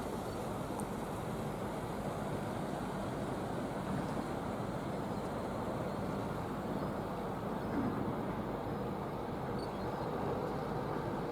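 Steady, even rumble of distant vehicles, with no single event standing out.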